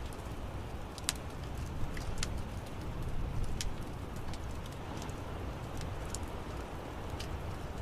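Wood fire crackling in an outdoor fireplace: irregular sharp pops and snaps, a few per second, over a steady low rumble of the flames.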